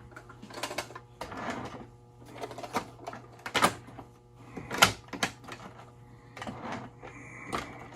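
O gauge model freight cars being handled and set on the track, with irregular clicks and clacks as wheels meet the rails and the couplers snap together. A steady low hum runs underneath.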